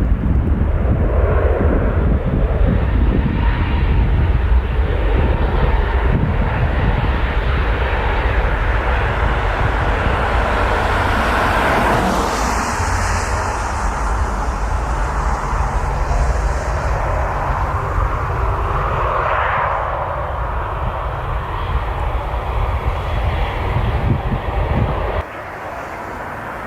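Jet airliner's engines, a loud, continuous rumbling noise from an airliner passing close on its landing. The sound fades gradually, then drops abruptly near the end.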